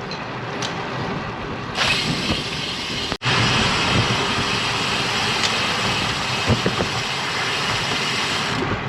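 Rushing wind and tyre noise on a camera mic riding along on a moving bicycle. It grows louder about two seconds in, cuts out for an instant about a second later, then continues.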